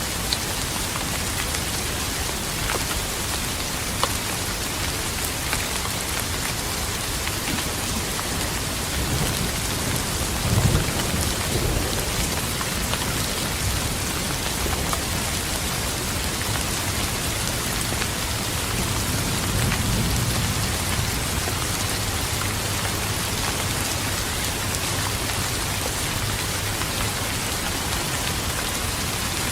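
Steady rain with individual drops ticking close by. A low thunder rumble swells about ten seconds in, and a weaker one about twenty seconds in.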